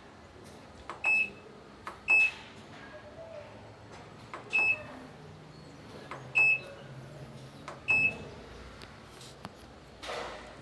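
Washing machine control panel beeping as its buttons are pressed: five short high beeps, each right after a click, a second or two apart. A short noise near the end.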